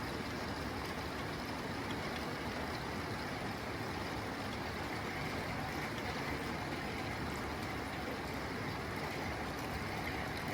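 Rain falling steadily on a tin roof: an even, unbroken hiss with faint drop ticks on the metal.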